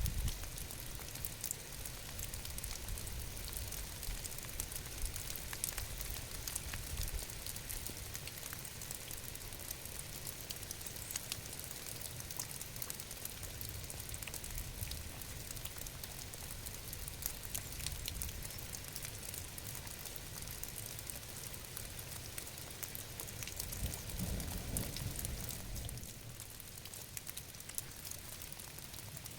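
Steady rain falling, a dense patter of fine drops over a low rumble. A brief low swell comes near the end, after which the rain is a little quieter.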